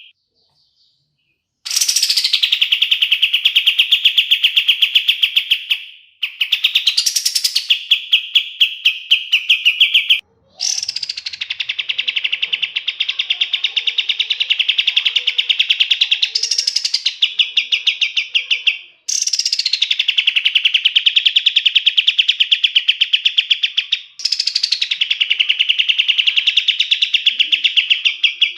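Kapas tembak bird singing its long rolling song: a run of fast rattling trills. Each phrase starts with a brief downward sweep and then holds a rapid even trill for several seconds. Short breaks separate the phrases, and the first comes in about two seconds in.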